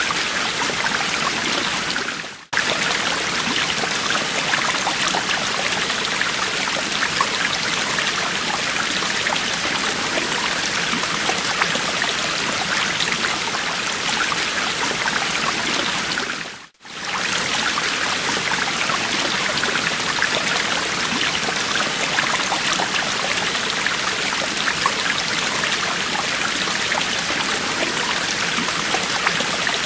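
Steady rushing of a flowing stream. It cuts out briefly twice, a couple of seconds in and again a little past halfway, then resumes.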